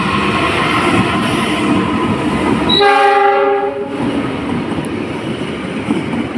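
Train running with loud, steady rail noise; its locomotive horn blows once for about a second midway.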